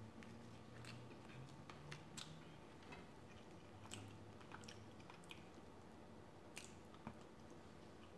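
Close-miked chewing of soft food, rice and chicken tikka masala: faint, irregular wet mouth clicks and smacks.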